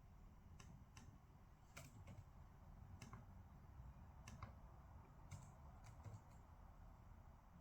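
Faint, irregular clicks and taps, about a dozen spread unevenly with some in quick pairs, over a quiet low room hum.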